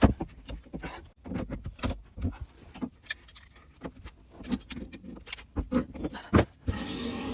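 Irregular metallic clinks and knocks of tools and pipe fittings being handled during plumbing work on a pressure reducing valve. A steady hiss sets in near the end.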